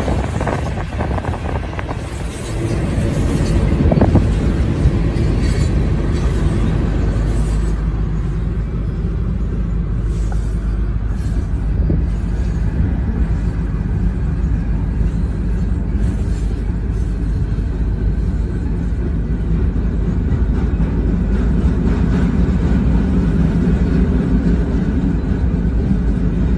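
Freight train rolling past, a steady low rumble with wheel and rail noise, brighter and noisier in the first few seconds.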